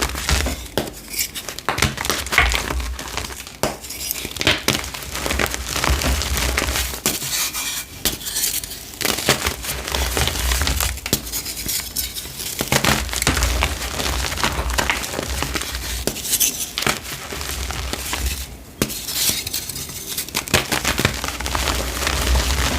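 Gym chalk discs crushed by hand: a dense run of gritty crunches and crackles, with dull low thuds every few seconds as the chalk is pressed.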